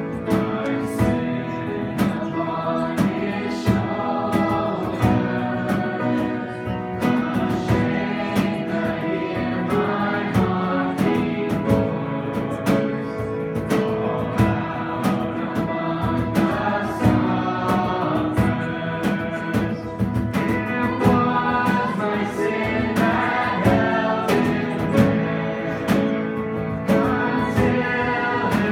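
Worship music: singers and instruments performing a Christian worship song, with a steady beat.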